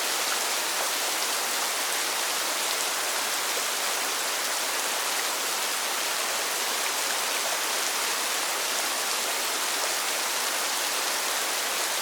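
Steady, even hiss of falling water, with no single drops or knocks standing out.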